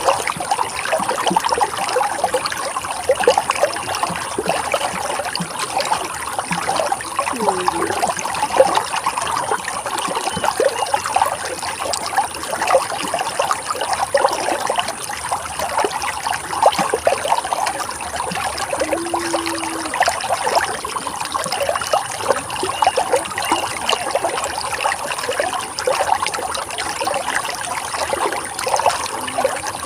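Running water flowing and splashing steadily, a dense trickling and burbling with many small splashes and no change in pace.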